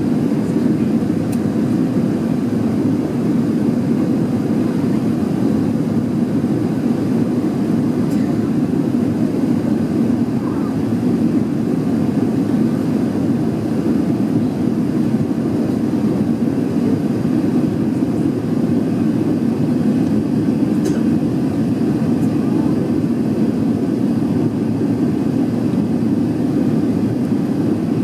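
Steady engine and airflow noise of an Airbus A380-841 with Rolls-Royce Trent 900 engines, heard from inside the passenger cabin: an even low rumble that does not change.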